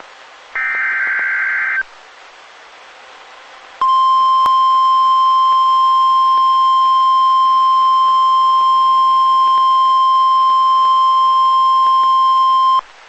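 Emergency Alert System broadcast of a National Weather Service warning. A harsh, buzzy digital header burst lasts about a second, followed by a short hiss. From about four seconds in, the single steady 1050 Hz weather-radio warning alarm tone sounds for about nine seconds and then cuts off.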